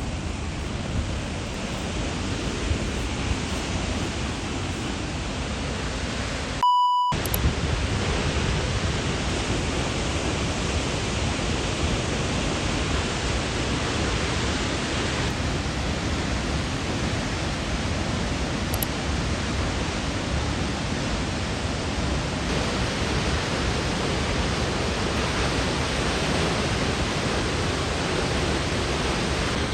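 Steady rushing noise of Månafossen, a 92-metre-high waterfall, falling into its gorge. About seven seconds in, the noise breaks off for a moment and a short beep sounds.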